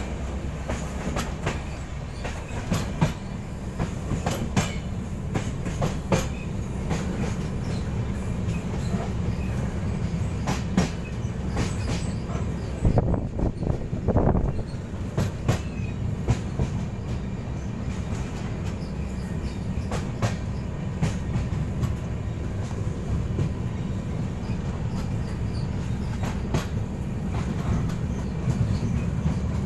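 Passenger train running along the track, heard from on board: a steady low rumble of the coach with irregular clacks from the wheels over rail joints, and a louder rush about halfway through.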